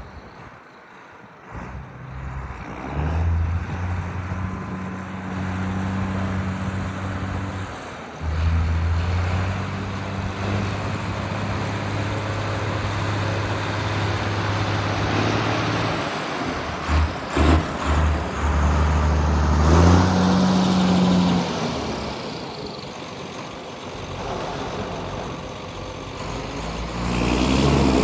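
John Deere 8450 tractor's diesel engine running, its sound rising and falling as the tractor is driven in forward and reverse gears. Several short knocks come about halfway through.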